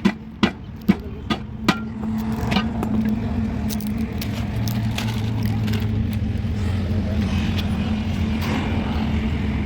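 Five sharp knocks in the first two seconds, about two to three a second, then an engine running steadily.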